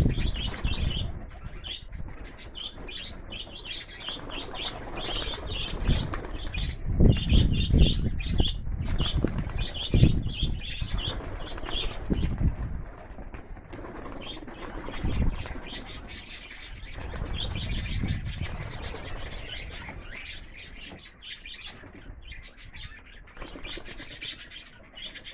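Pigeons' wings flapping as the flock takes off and flutters around the loft, with birds chirping.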